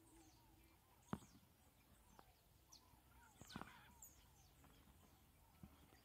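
Near silence with faint bird chirps, and two soft clicks, about a second in and past the middle.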